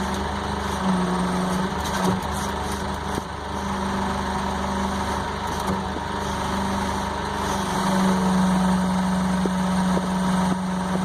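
Heavy machine's engine running steadily under light throttle, its hum swelling louder at times, most strongly from about eight seconds in.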